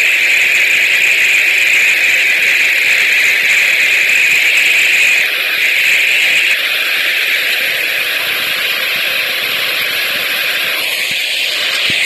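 Cyclone Amphan's gusty wind: a loud, steady hiss that eases slightly about five seconds in and again a little later.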